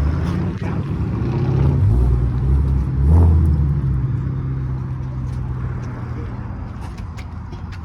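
A car's engine runs as the car drives past, growing louder to a peak about three seconds in and then fading away.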